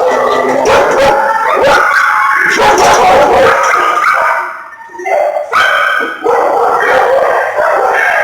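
Several dogs in shelter kennels barking at once, nearly without pause, with a brief lull about four and a half seconds in.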